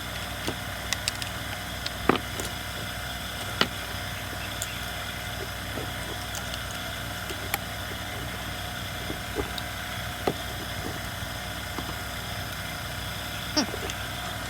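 Light clicks and taps of hand tools and small chainsaw parts being handled, over a steady background hum.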